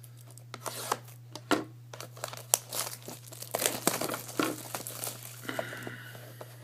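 Plastic wrapping on a sealed box of trading cards being torn open and crinkled, in a run of irregular crackles and rips.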